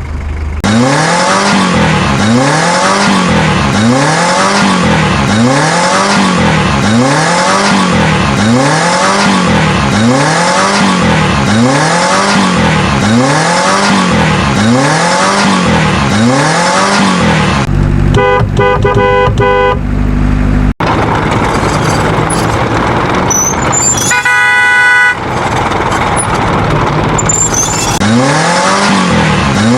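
Vehicle sound effects: a pitched tone rising and falling about once a second, repeated over and over, then a car horn held for about three seconds. A stretch of noisy vehicle sound follows with a second, shorter horn blast, and the rising-and-falling tone comes back near the end.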